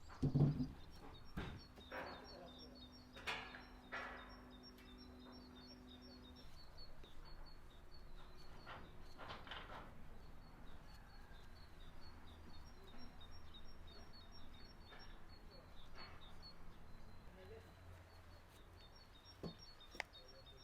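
Quiet rural ambience with small birds chirping repeatedly in the background. A louder low call and a few knocks come near the start.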